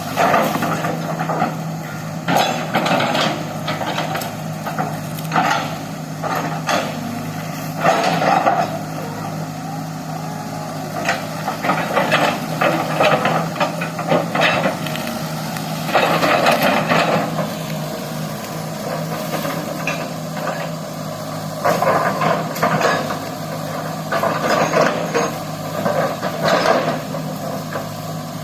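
Excavator's diesel engine running steadily, with repeated bursts of clanking and knocking as it works.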